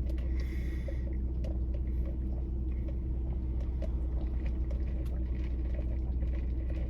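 Steady low rumble of a car's cabin, heard from inside the parked car, with scattered faint small clicks.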